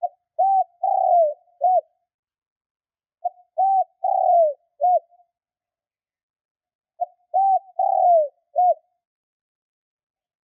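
Spotted dove cooing: three calls about three and a half seconds apart, each a short note, a second note, a longer falling coo and a final short note.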